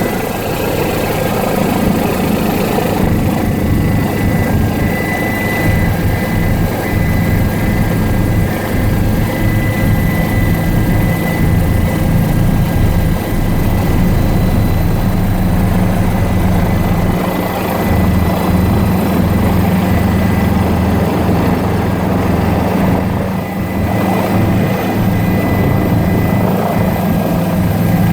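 Helicopter running steadily: a constant low rotor and engine drone with a thin, steady high whine over it.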